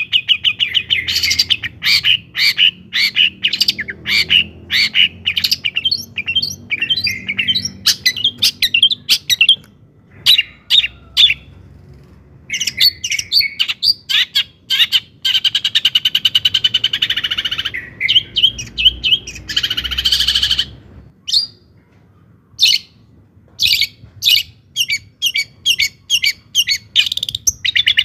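Long-tailed shrike singing: fast, chattering runs of sharp chirping notes, broken by brief pauses about eleven and twenty-one seconds in.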